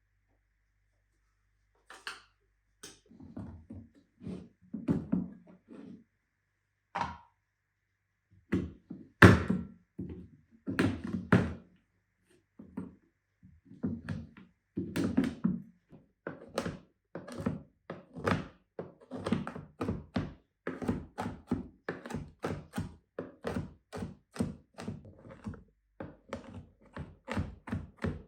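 A series of dull thunks and knocks on a hard surface, sparse and irregular at first, then a steadier run of about one to two a second through the second half.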